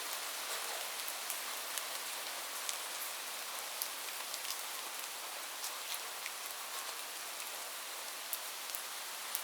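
Steady rain: an even hiss with many individual drops ticking through it, no thunder.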